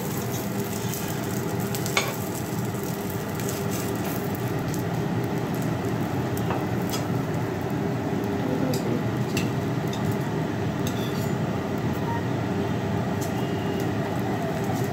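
Cabbage paratha sizzling steadily on a hot flat tawa over a gas burner, with a few light clicks of utensils against the pan. Near the end a spoon spreads oil over the top of the paratha.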